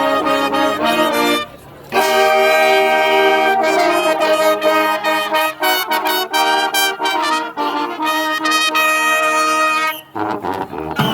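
Marching band brass section playing loud sustained chords, breaking off for about half a second near the start and then coming back in.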